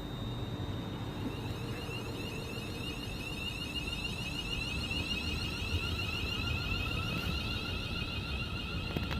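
Rapid, high-pitched electronic warning beeps start about two and a half seconds in and grow louder, over a low steady rumble.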